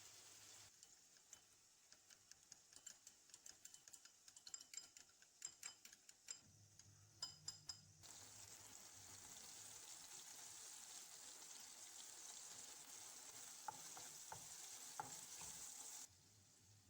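Faint, quick clicks of a utensil against a bowl or pan, followed by food sizzling steadily in a frying pan with a couple of light taps. The sizzle cuts off abruptly near the end.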